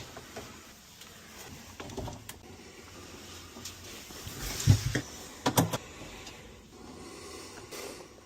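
Scattered clicks and knocks of parts and tools being handled during refrigerator repair work, with a louder cluster of knocks about halfway through.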